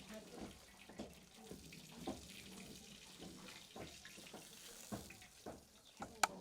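Faint washing at a kitchen sink: water splashing, with scattered small knocks and clinks, and one sharp click near the end.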